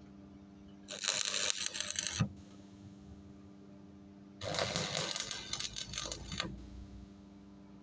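Stick-welding arc from an E6013 electrode on a Miller Thunderbolt 225, crackling in two short bursts of about one and a half and two seconds: tack welds joining the two steel plates before the fillet weld.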